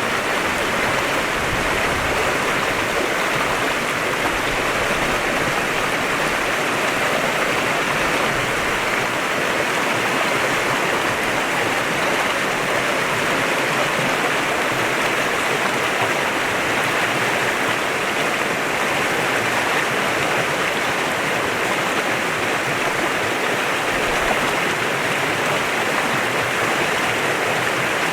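Clear mountain stream flowing over rocks: a steady, even rush of water.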